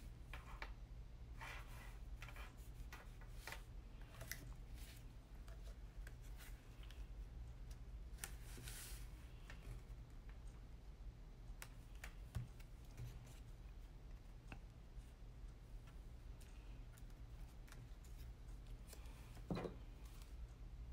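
Paper craft work with cardstock pieces being handled and laid down on the work surface: scattered light taps and rustles, with a longer rustle about eight seconds in. A steady low electrical hum lies underneath.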